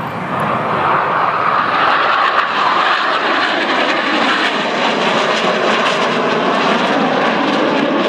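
Jet noise from Northrop F-5E Tiger II fighters flying by, with their twin turbojets. It builds over the first second and then holds loud and steady.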